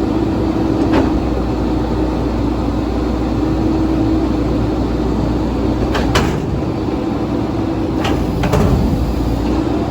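Mack MR rear-loader garbage truck running steadily with a low rumble and a held hum, with sharp metallic knocks from the working truck about a second in, once around six seconds and twice near eight seconds.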